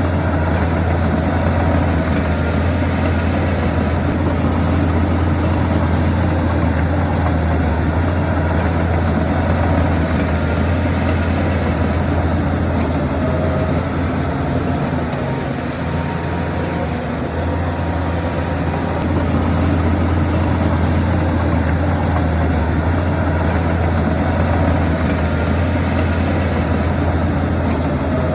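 Heavy diesel engine of earthmoving machinery running steadily with a strong deep hum, easing off slightly about halfway through.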